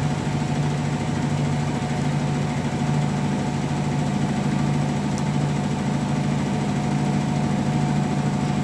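Hotpoint washing machine on its spin cycle: a steady motor hum with a steady whine over it, unchanging throughout.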